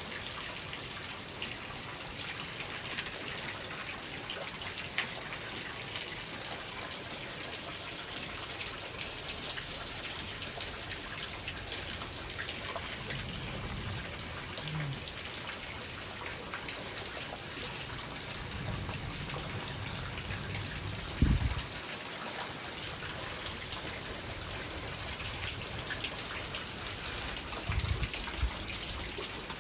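Steady heavy rain hissing during a thunderstorm, with a few low rumbles from wind gusts or distant thunder. A short, sharp low thump about two-thirds of the way through is the loudest sound.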